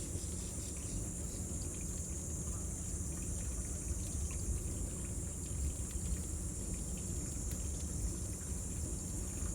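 Cicadas singing in a steady, high-pitched drone over the low rumble of a bonfire, with faint scattered crackles.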